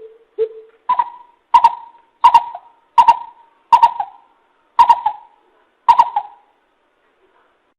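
Greater coucal calling: a series of about ten short hoots, roughly one every 0.6 s. The first three are low and the rest step up higher and louder, each beginning with a sharp click.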